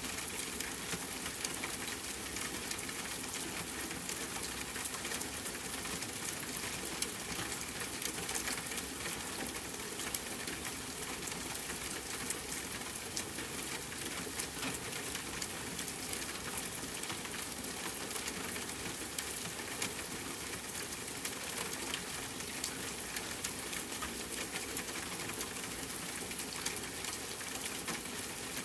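Steady rain: an even hiss with many small, sharp drop ticks, holding level throughout.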